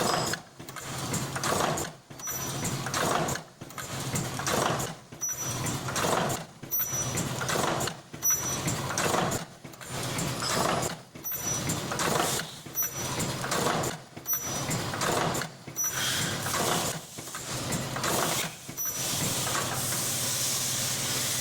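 Mask earloop welding machine running automatically in a steady cycle, about one stroke every second and a half, with clattering mechanism noise and a brief high-pitched tone in each cycle over a steady low hum. The cycling stops near the end, leaving an even hiss.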